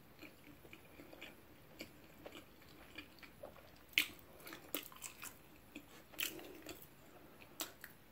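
Close-miked chewing of soft food, naan with saag paneer, with irregular wet mouth clicks and lip smacks; the loudest smack comes about four seconds in.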